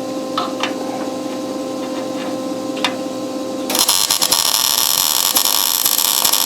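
A steady hum with a few sharp clicks, then, just under four seconds in, a loud harsh metalworking tool starts up and keeps running.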